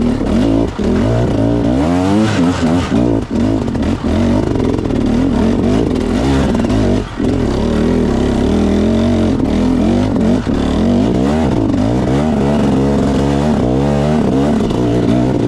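Enduro dirt bike engine revving up and down continuously as the rider works the throttle on the trail, with a few short knocks in between.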